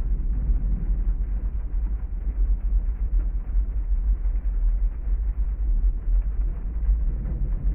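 Heavy rainstorm ambience: a steady, even rumble of rain noise, heaviest in the deep low end, with no distinct thunderclap.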